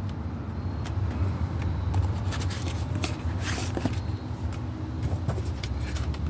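A steady low rumble, like an engine or motor running, with a few faint clicks over it.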